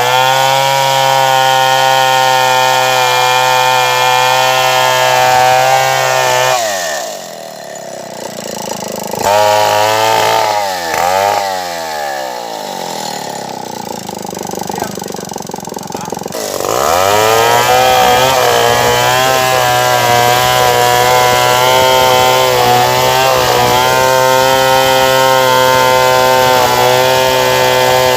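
Stihl 070 two-stroke chainsaw running at high revs cutting wood. About seven seconds in it drops to idle, with a couple of short throttle blips, then winds back up to full revs about ten seconds later and keeps cutting.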